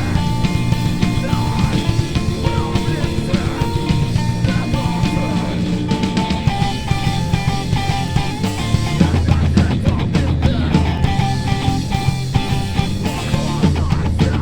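Rock band playing live: held melody notes over a steady bass and drum beat, with no vocal line standing out.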